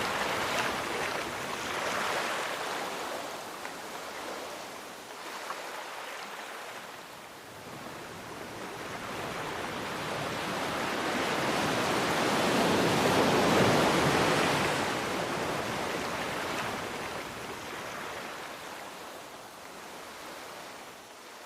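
Sea waves breaking and washing on the shore. The surf swells and ebbs, with one large wave building to its loudest about 13 seconds in and then drawing back.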